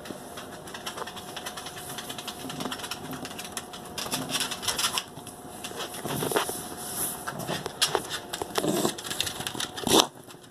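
A dog coughing repeatedly in a run of hacking bursts, the loudest one near the end.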